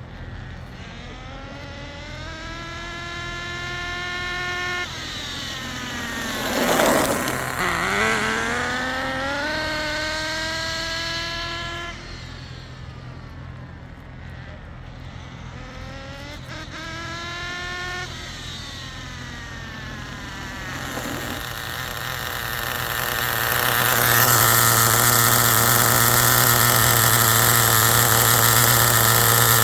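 Nitro RC car's Academy XT15 glow engine revving in long rising sweeps as the car accelerates, with its loudest moment about seven seconds in. From about three-quarters of the way through it holds a steady, louder note.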